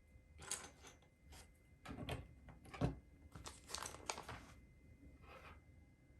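Small plastic LEGO pieces being handled and pressed together, a string of light clicks and clatters with one sharper knock about three seconds in.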